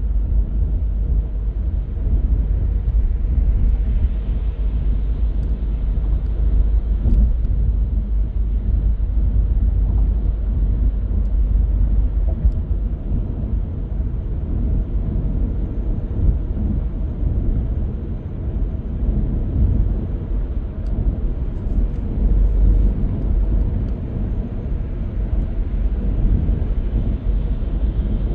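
Car driving at steady speed: a continuous low road and engine rumble with tyre noise, with a few faint ticks here and there.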